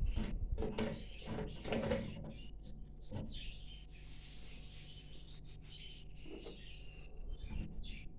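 Caged small songbirds chirping and calling in short high notes, some of them gliding. There are several knocks and rustles in the first two seconds.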